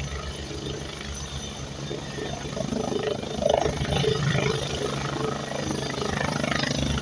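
Helicopter in flight, its rotor beating in quick even pulses. It grows louder about halfway through.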